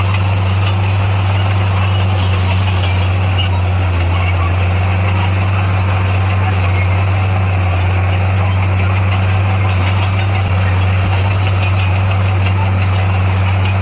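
Heavy construction machine's diesel engine running steadily with a deep, constant drone.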